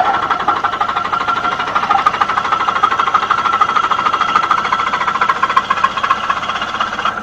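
Diesel engine running just after a cold start, with a rapid, even knocking clatter.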